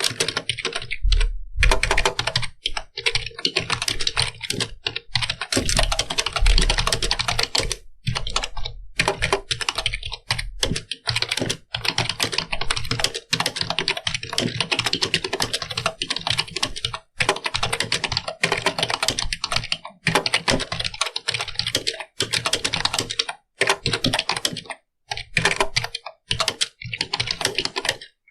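Computer keyboard being typed on quickly and continuously, a dense run of key clicks broken by brief pauses.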